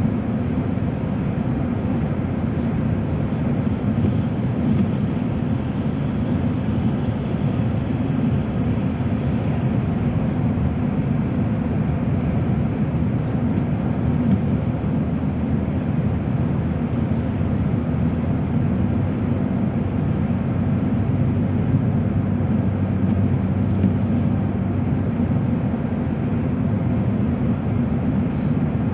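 Steady drone of tyres and engine heard from inside a moving car's cabin at highway speed, even and unbroken throughout.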